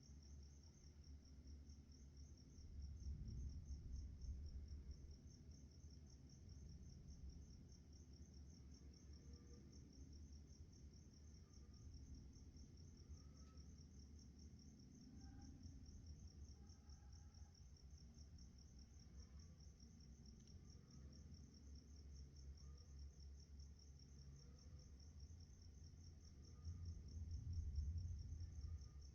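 Night insects, crickets, chirping in a steady, fast, evenly pulsed high trill, with faint scattered chirps underneath. A low rumble swells twice, about three seconds in and again near the end.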